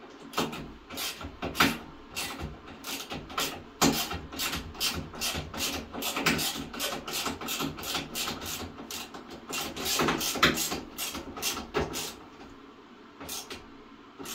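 Rapid run of sharp clicks and knocks, about three a second, from a hand tool tightening screws into the plastic fittings of a washing machine's drain pump. The clicks stop about 12 seconds in, with a few stray ones near the end.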